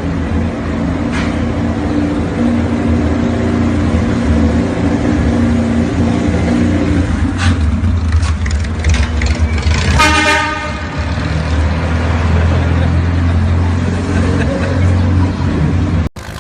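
Car engine and road noise running steadily as the car drives, with a few short clicks, then a single car horn blast about ten seconds in.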